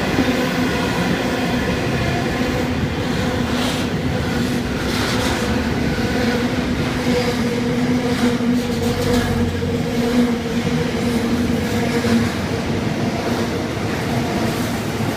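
Long intermodal freight train rolling past at steady speed, wagon wheels running over the track in a continuous even rumble, with a droning hum that fades about three quarters of the way through.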